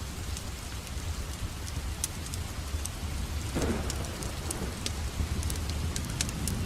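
Steady rain with a fireplace crackling, scattered sharp pops over a constant hiss. A low rumble swells in about halfway through.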